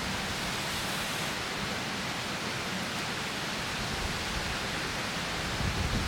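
Strong wind rushing steadily, with an uneven low rumble of gusts buffeting the microphone.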